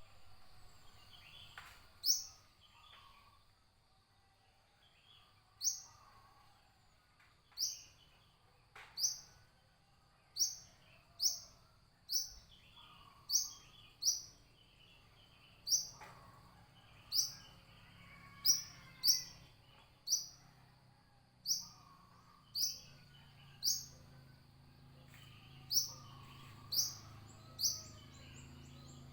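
Brown-throated sunbird (kolibri kelapa) calling: short, sharp rising chirps, one every second or two, about twenty in all, over a faint steady high whine.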